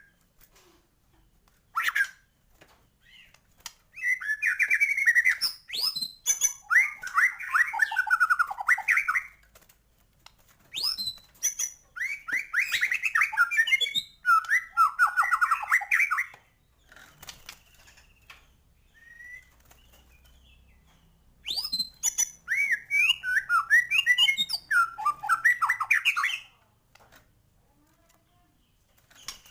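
White-rumped shama singing loudly in three bursts of about five seconds each, made of rapid, varied trills and whistled phrases, with short pauses between. The song is full of imitated fill-in phrases.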